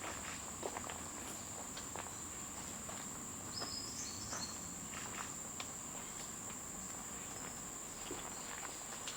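A steady high-pitched insect drone, with scattered sharp clicks and a few brief high chirps about four seconds in.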